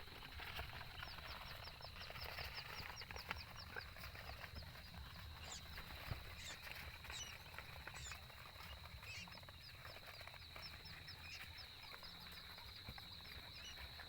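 Quail peeping: long runs of short, high peeps, each falling in pitch, a few a second. Under them is a steady high-pitched whine, with scattered faint scratches and clicks.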